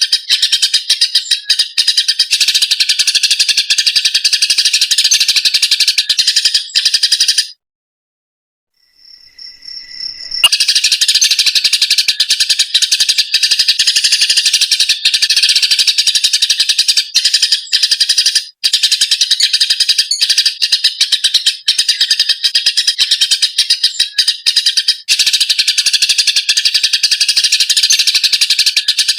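Eurasian tree sparrows giving a dense, continuous stream of rapid, shrill chirps: the agitated calls of sparrows fighting. The chirping cuts out for about three seconds about a quarter of the way in, then starts again at full strength.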